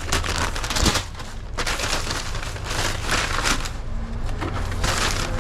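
Rapid crinkling and crackling in several bursts, a food wrapper being handled and folded while an order is packed, over a steady low hum.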